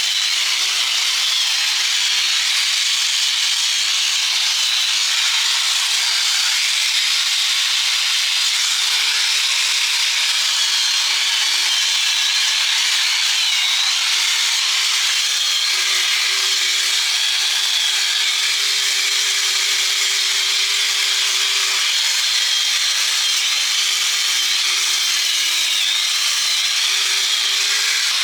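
A power tool abrading steel without a break: a steady harsh hiss, with a faint motor tone underneath that wavers up and down under load.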